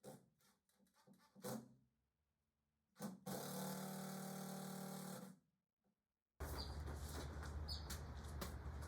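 A couple of light knocks, then a power drill runs steadily for about two seconds, driving into the wall. A steady low hum starts about a second after it stops.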